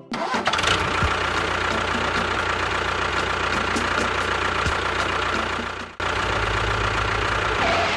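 An engine running steadily at idle with a low, even throb. It breaks off sharply about six seconds in and picks up again straight away.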